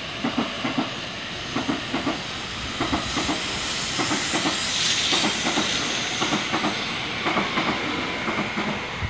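JR Central N700 series 2000 Shinkansen train pulling out past the platform under steady acceleration. Its wheels click over the track in clusters of three or four, about once a second as each car's bogies pass, over a steady rushing hiss. The clusters come a little faster toward the end as the train gathers speed.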